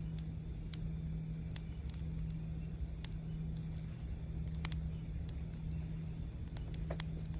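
Campfire crackling with a few sharp, scattered pops, over the low, steady hum of a singing bowl ringing on.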